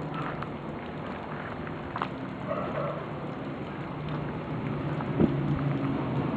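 Thunderstorm rain and wind with wind buffeting the microphone, a steady noisy wash that grows louder near the end, with a few sharp crackles.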